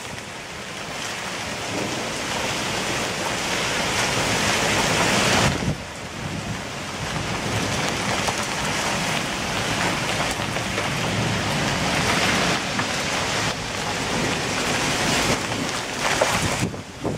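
Heavy rain pouring down in a windstorm, a dense steady hiss. It drops suddenly about five and a half seconds in, then builds back up.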